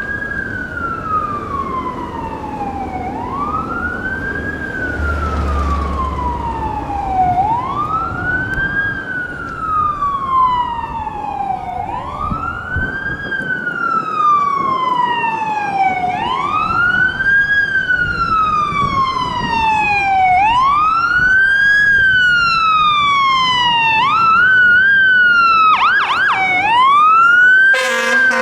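Fire rescue truck's siren wailing: each cycle rises quickly and glides slowly down, repeating about every four seconds and growing louder. Near the end it breaks into a few quick yelps, then there is a short horn blast.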